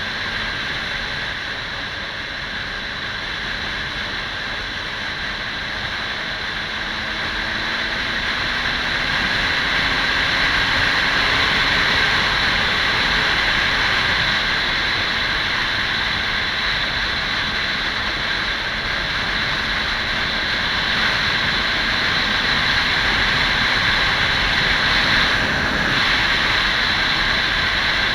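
Kawasaki 400 cc motorcycle under way, its wind rush over the microphone dominating, with the engine's note faintly underneath rising in pitch early on as it accelerates. The rush grows louder about a third of the way in as speed picks up.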